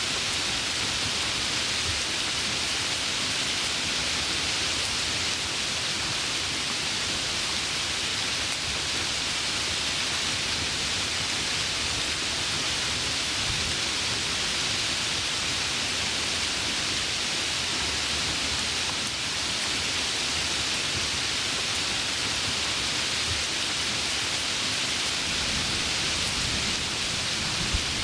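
Heavy rain falling steadily, a dense even hiss with no distinct drops or breaks.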